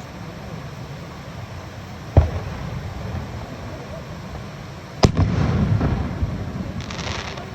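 Aerial firework shells bursting: one bang about two seconds in, a louder bang about five seconds in with a rumbling tail, and a brief crackling hiss near the end.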